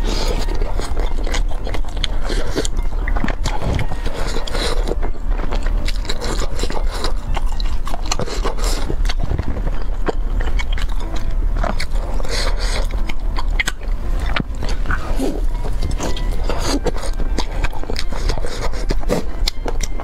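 Close-up eating sounds: biting into and chewing a crisp, skewered piece of chili-sauced food, with many sharp crunches and wet mouth clicks.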